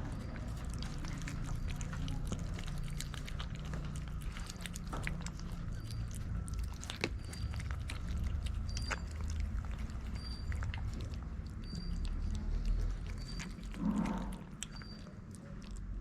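Street cats eating, with many short clicks of chewing and crunching over a steady low rumble. A faint high chirp repeats about once a second, and a short vocal sound comes near the end.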